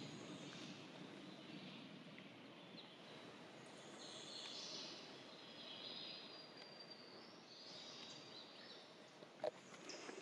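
Quiet forest ambience with faint, distant birdsong coming and going, and a single sharp click about nine seconds in.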